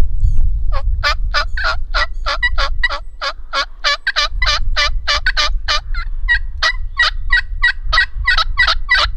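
Turkey calls imitating hen turkeys, worked by two hunters together: a long, even run of sharp yelps at about three notes a second, with a second caller's series overlapping partway through. Low rumble of wind on the microphone underneath.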